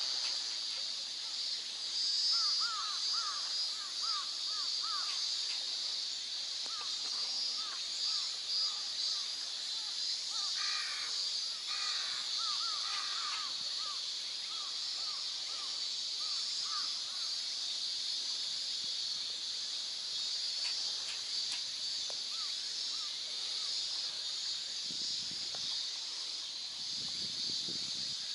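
Open-air lakeside ambience: a steady high-pitched drone runs throughout, and over it a bird calls in quick series of short, repeated notes during the first half. A couple of soft low bumps come near the end.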